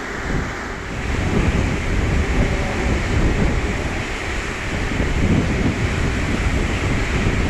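Boeing 777-300ER's GE90 turbofan engines running at taxi power: a steady jet rumble and hiss that grows a little louder about a second in, with wind buffeting the microphone.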